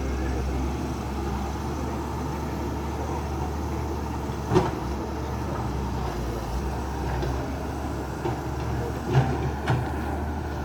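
Motor vehicle engines running steadily in a low hum, with a sharp knock about halfway through and two lighter knocks near the end.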